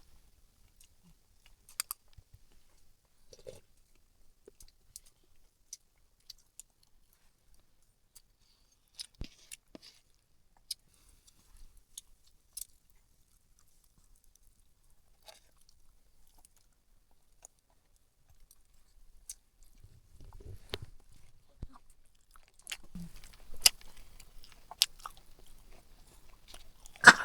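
People eating a meal: quiet chewing with scattered light clicks, getting busier near the end.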